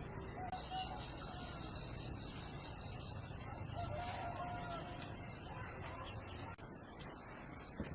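A rooster crowing faintly, a short call near the start and a longer wavering crow about four seconds in, over a steady high chirring of crickets.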